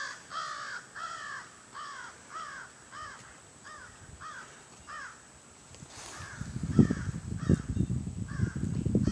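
An animal giving a steady series of short, harsh calls, about two a second, fading after about five seconds. Low crunching and rustling noises start near the end.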